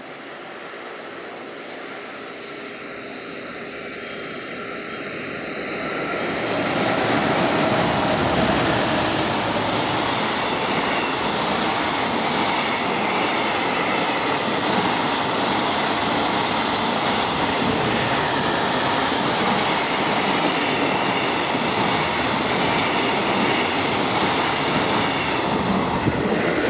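Electric-locomotive-hauled freight train passing through a station without stopping: it builds up over about six seconds as it approaches, then a loud, steady rolling noise of the wagons' wheels on the rails.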